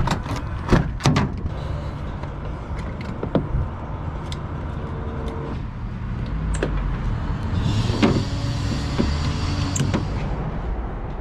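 Scania lorry's diesel engine running with a steady low rumble, with several sharp knocks and clatters in the first few seconds and a hiss about eight seconds in.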